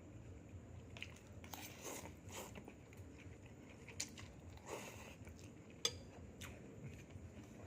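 Faint close-up eating sounds: a person biting and chewing crunchy food, with a few sharp clicks like cutlery or dishes.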